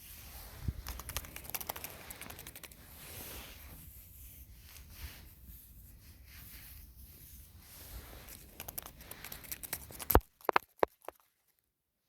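Close-up rustling and crinkling from hands handling gardening materials, full of small sharp clicks, with a few louder clicks about ten seconds in before the sound cuts off abruptly.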